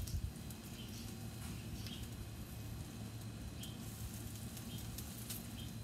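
Faint bird chirps, short falling calls every second or so, over a steady low outdoor background hum.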